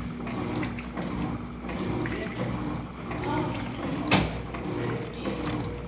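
Electrolux LF75 top-loading washing machine agitating a load in the wash: a steady motor hum with water sloshing, swelling and easing in a slow rhythm as the agitator turns back and forth. A single sharp knock about four seconds in.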